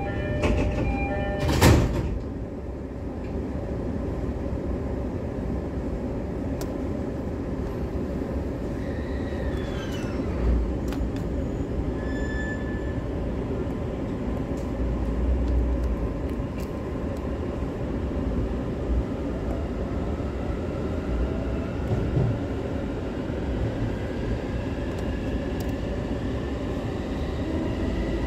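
Inside a JR East E531-series trailer car: a door chime finishes and the sliding doors shut with a thud about a second and a half in. The train then pulls away, with the rumble of the running gear and a faint rising whine from the traction motors as it gathers speed.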